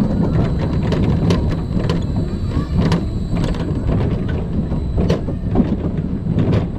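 Family roller coaster train running on its track: a steady, loud rumble with scattered sharp clicks and knocks.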